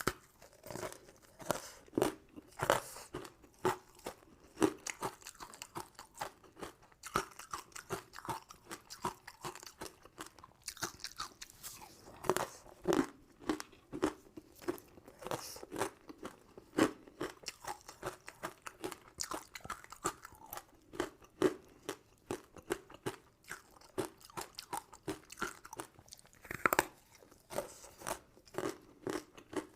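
Close-miked ASMR eating: biting into and chewing crisp, sugar-crusted sweets, with many irregular sharp crunches and crackles.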